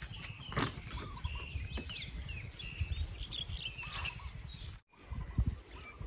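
Small birds chirping in many short calls over a steady low background rumble, with a few soft low thumps near the end.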